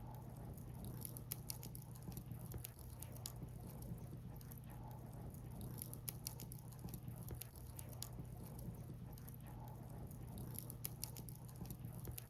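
Burning firewood crackling, with irregular sharp pops and snaps over a steady low background hum.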